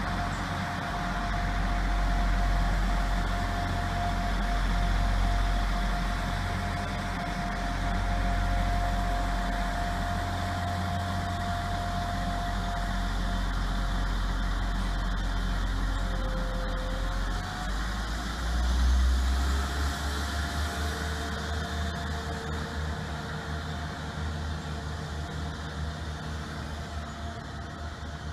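Railway train running: a steady low rumble with a faint held whine. The rumble swells briefly about two thirds of the way through, then settles into a quicker throb.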